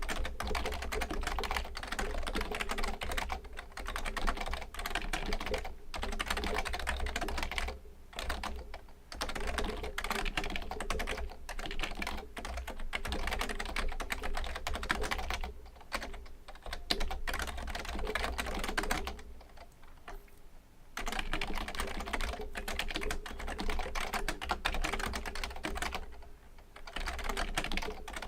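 Fujitsu Component Libertouch premium membrane keyboard being typed on fast and continuously, a dense run of keystrokes broken by short pauses now and then, the longest a little past the middle.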